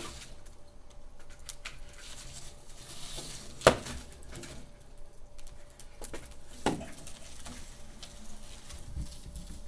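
Wood fire crackling softly in a fireplace, with a sharp pop a little under four seconds in and a smaller pop near seven seconds.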